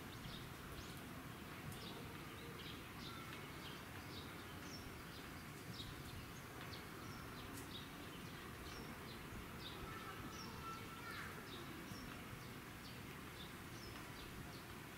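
Small birds chirping, many short high chirps scattered throughout, faint over a steady low background noise.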